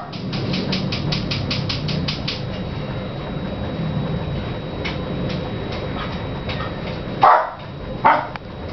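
Camiguin hanging parrot twittering: a fast run of short, high chirps at about six a second, then scattered single chirps. Near the end come two louder, lower calls about a second apart.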